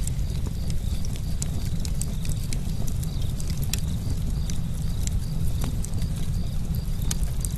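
Campfire burning: a steady low rumble with irregular sharp crackles and pops from the burning wood.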